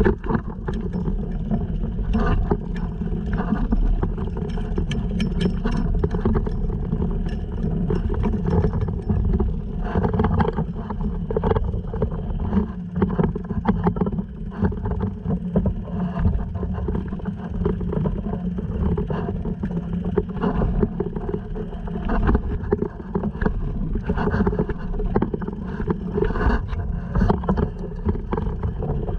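Honda 2.3 four-stroke outboard running steadily, pushing a sea kayak, with water splashing against the hull and crackling wind on the microphone.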